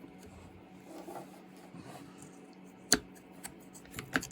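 Small metal chainsaw parts handled by hand: faint rubbing and light clicks, with one sharp click about three seconds in and a few more clicks near the end.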